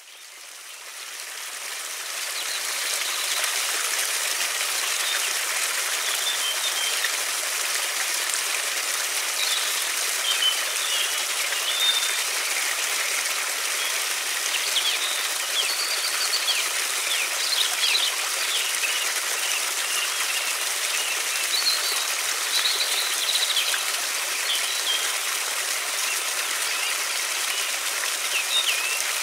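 Steady rush of a flowing river, fading in from silence over the first few seconds, with small birds chirping now and then above it.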